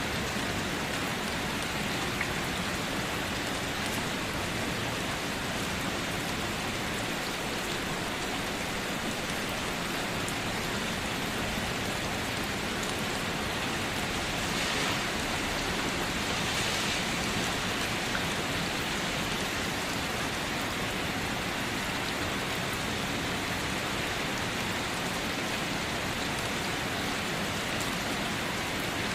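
Steady rain falling, an even hiss of countless drops, swelling slightly a little past the middle.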